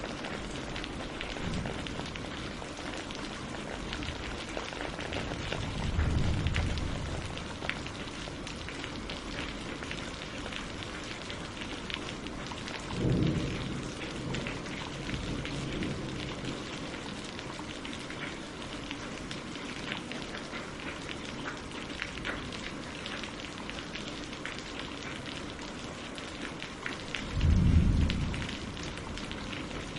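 Steady rain falling on leaves and on a lake's surface, a dense patter of drops. Three brief low rumbles rise out of it, about six and thirteen seconds in and, loudest, near the end.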